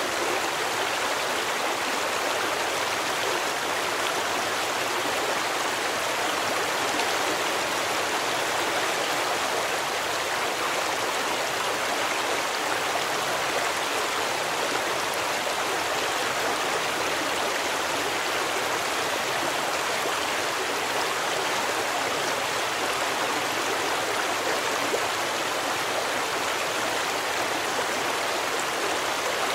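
Steady rushing of a stream, even and unbroken, with no single splashes standing out.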